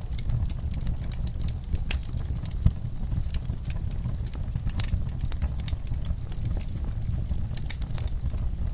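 Wood fire in a fireplace crackling: irregular sharp snaps and pops over a steady low rumble of flames, with one louder pop a little under three seconds in.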